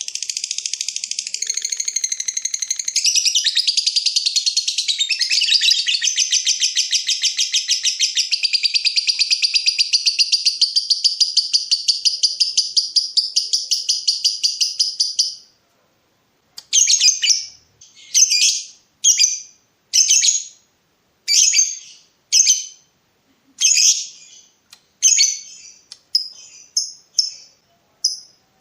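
Lovebird ngekek: a long, fast, unbroken high chattering trill lasting about fifteen seconds, which then breaks off into short chattering bursts about once a second.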